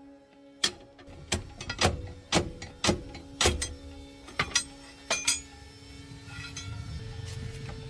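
A run of sharp metallic knocks, roughly two a second, each ringing briefly, during work on a truck's axle housing. Near the end they stop and a low hum builds.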